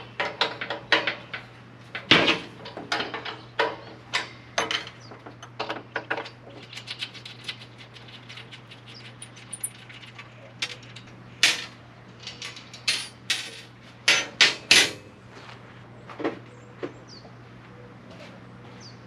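Hand tools and metal parts clinking and clanking during wrench work on an engine: a long run of irregular sharp clicks and knocks, some leaving a short metallic ring, over a steady low hum.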